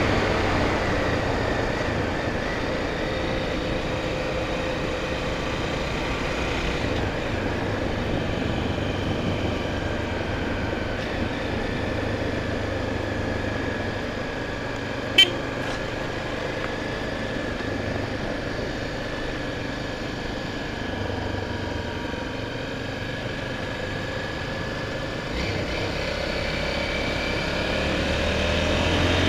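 Honda Tornado 250's single-cylinder four-stroke engine running under way at a steady speed. Its pitch falls at the start and rises again near the end as the bike speeds up. About halfway there is one very brief sharp sound.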